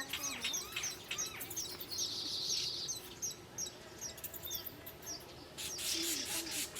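Small wild birds chirping: many quick, high chirps one after another, with a buzzy trill about two seconds in. A short burst of rustling noise comes near the end.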